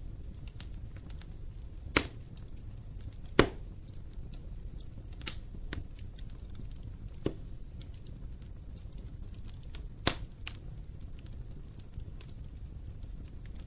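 Wood fire burning in an open fireplace: a low steady rumble of flame with a scatter of light crackles and about five sharp pops from the burning logs, the loudest about two, three and a half and ten seconds in.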